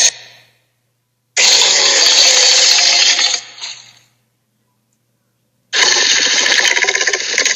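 Harsh, raspy fantasy-creature roar sound effects: one roar of about two seconds fades out, and a second starts about two seconds later and carries on.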